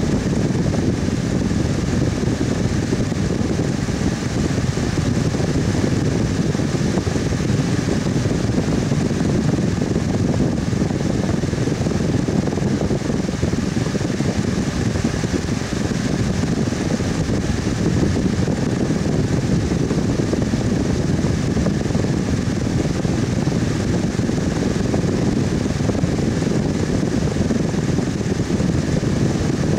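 Electric fan running steadily: an even, unbroken whooshing noise, mostly low, with a faint steady hum.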